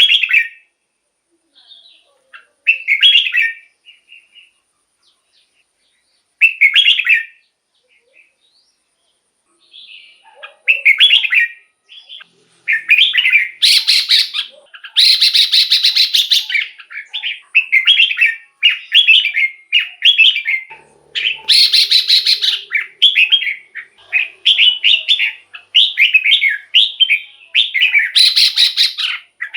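Red-whiskered bulbul singing short, warbling phrases, a few seconds apart at first and then almost unbroken from about halfway through, with a few scratchier, noisier notes among them.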